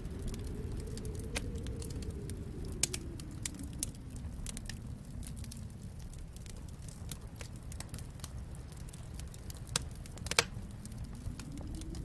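Wood fire crackling with scattered sharp pops, the loudest a little after ten seconds, over a steady low rumble that swells and fades in the first few seconds.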